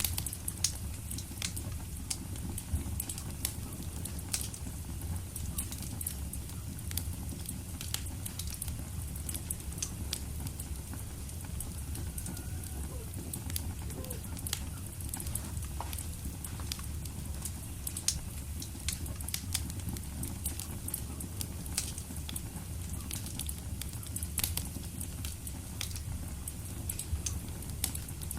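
Wood fire burning in a fireplace, with a steady low rumble and hiss and frequent sharp crackles and pops at irregular intervals.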